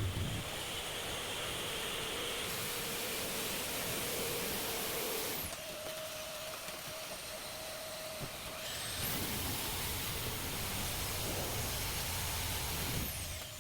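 Power tool cutting through a sandwich-panel wall to open a hole for a stove flue. It is a steady rushing run with a motor tone that shifts pitch a few times, as the load on it changes.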